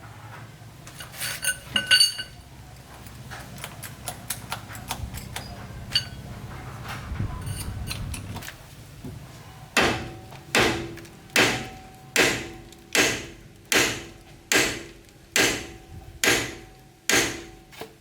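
Metal parts clinking and clicking, then about ten evenly spaced hammer blows on metal, a little more than one a second, each leaving a short ring.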